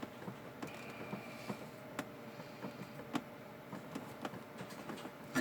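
Faint, scattered clicks and light knocks: handling noise from hands working grease into the bearings of an upturned children's rocking ride, over a low steady hum.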